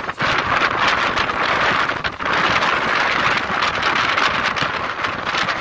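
Mumbai suburban electric local train running at speed, heard from its open doorway: wind rushing over the microphone together with the rumble and clatter of the wheels on the track, steady and loud.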